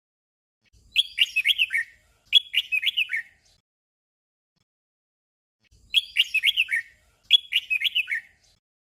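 Red-whiskered bulbul singing a short warbled phrase twice in quick succession, then after a pause of about three seconds the same doubled phrase again.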